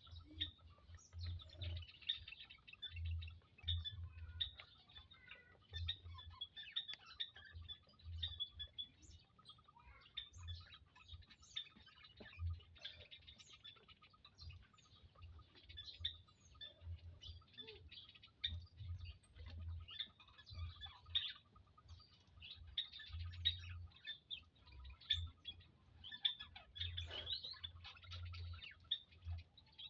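Quail chirping continuously, many short high calls overlapping, over an intermittent low rumble.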